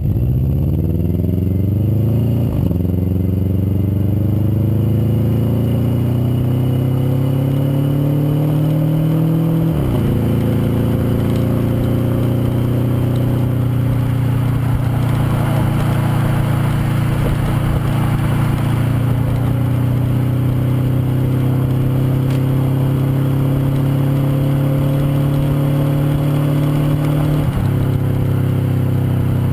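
2002 Subaru Outback's 2.5 L EJ25D flat-four, breathing through Borla headers and an HKS Hi-Power Ti axle-back exhaust, accelerating from a part-throttle launch. The exhaust note rises steadily and drops sharply as the automatic transmission upshifts, about two and a half seconds in, about ten seconds in and again near the end.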